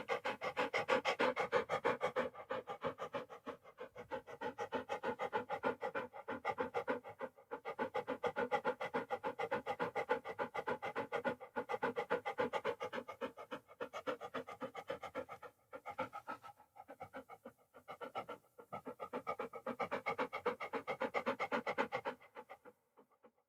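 A dog panting rapidly, several quick in-and-out breaths a second in an even rhythm. There are a few brief breaks, and the panting stops shortly before the end.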